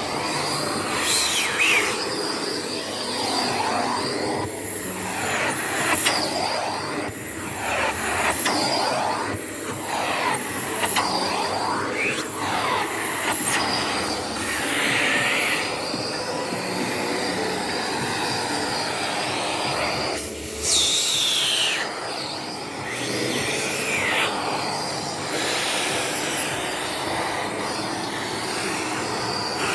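Vacuum cleaner running on cinema sofa upholstery, its whine rising and falling again and again as the suction changes.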